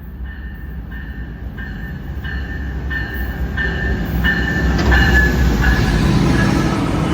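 Amtrak passenger train rolling through the station and growing louder, a low rail rumble building to its loudest about five seconds in. A bell rings steadily about one and a half strokes a second, getting louder, then stops near the end.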